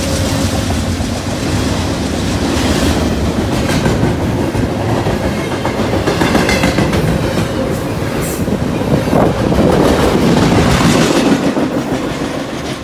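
Double-stack intermodal container cars of a freight train rolling past at close range, steel wheels rumbling on the rails. The sound is loud and steady, then begins to fade near the end as the last cars go by.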